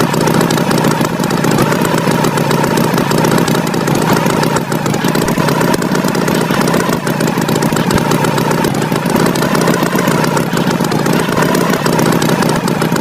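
Tractor engine sound effect running steadily at a constant, loud level.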